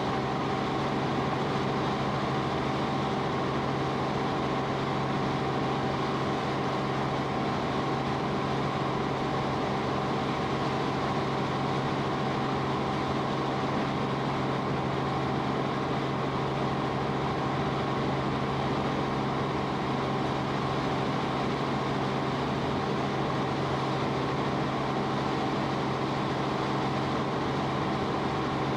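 Steady drone of an aircraft's engine heard from inside the cabin, holding several fixed tones and never changing in level.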